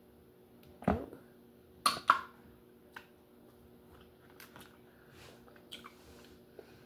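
A lobster's claw shell being cracked open: one sharp crack about a second in, two louder cracks a second later, then smaller crunches and clicks as the shell gives way.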